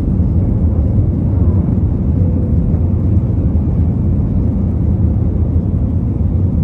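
Airbus A321 jet airliner's engines: a steady, even low rumble.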